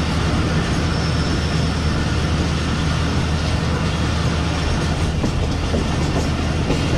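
Pakistan Railways passenger train running along the track, heard on board: a steady rumble and rolling noise, with faint clicks of wheels over rail joints starting about five seconds in.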